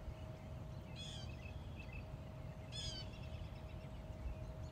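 Two short bursts of small-bird chirping, about a second in and again near three seconds, with a few fainter chirps between, over a low steady rumble.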